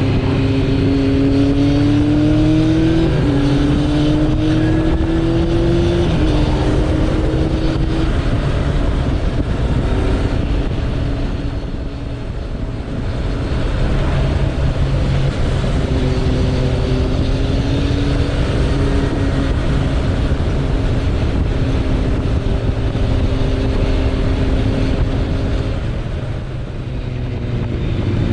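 Suzuki Bandit 1200's inline-four engine under way, its pitch rising through the gears in steps over the first few seconds, then holding a steady cruise. It eases off briefly about twelve seconds in and again near the end.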